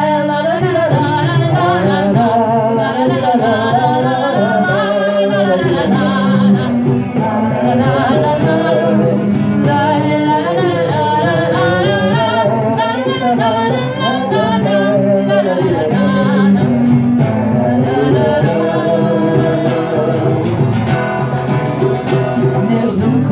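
Live song: a voice singing a wavering, long-held melody over sustained guitar chords, with no clear words.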